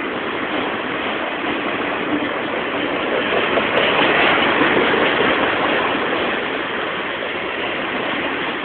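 Freight train of enclosed autorack cars rolling past at speed: a steady rush and rumble of steel wheels on the rails, swelling a little about midway.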